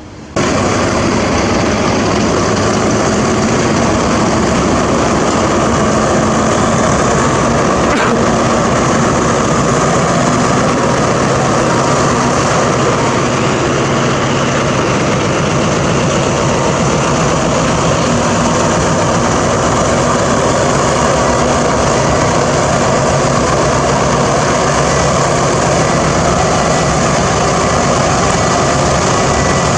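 Diesel train engine running steadily and loudly, with a low engine hum under a heavy mechanical rush; it cuts in suddenly just after the start.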